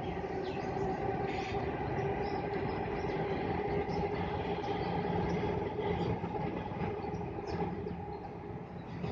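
A steady mechanical drone with a low rumble and a held hum, running evenly throughout, with faint short high chirps scattered over it.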